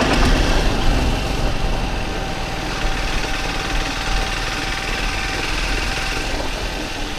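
Triumph Speed 400's single-cylinder engine running steadily while the motorcycle is ridden.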